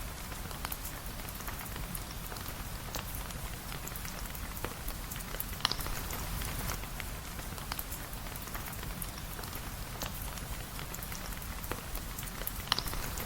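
Steady rain falling, with many scattered sharp ticks of drops and two louder taps, one about halfway through and one near the end.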